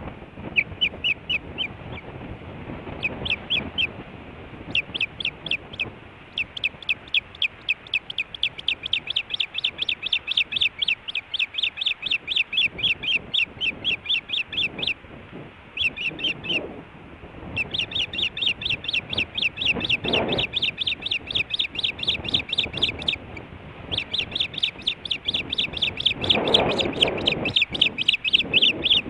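Osprey calling from the nest: long runs of short, sharp chirps, about four to five a second, with brief pauses between runs. A low rushing noise comes twice, once around the middle and once near the end.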